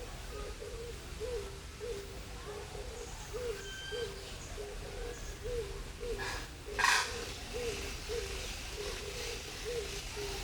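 A bird's low, hooting call repeated steadily, about two notes a second, with a few faint higher chirps. One short, loud, harsh burst comes about seven seconds in.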